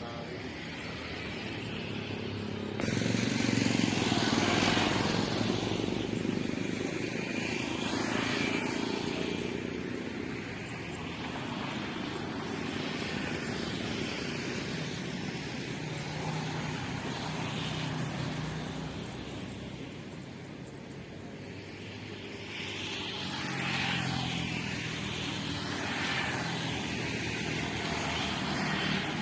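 Jet airliner engines running as aircraft pass, a loud rumble with a sweeping whoosh that starts abruptly about three seconds in and swells again near the end.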